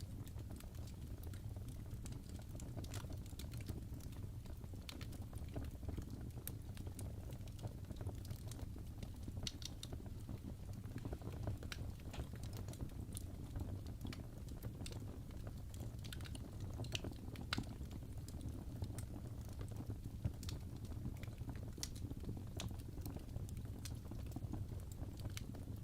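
Fire in a fireplace crackling: irregular sharp pops and snaps scattered over a steady low rumble.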